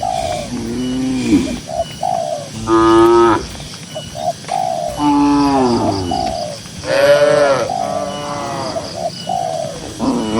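Several cows mooing, about five long calls one after another. Some calls are low and some are higher-pitched, from more than one animal.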